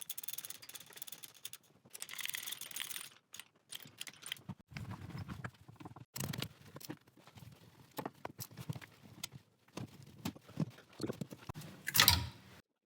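Irregular knocking and clattering of hands-on workshop work on the car, with a louder knock near the end before the sound cuts off suddenly.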